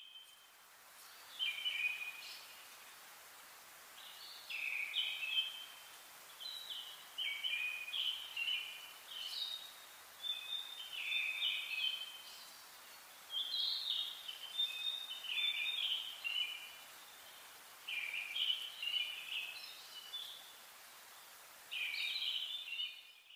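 A songbird singing: short, quick warbling phrases of a second or two, repeated about a dozen times with brief pauses between them, over a faint steady hiss of outdoor background.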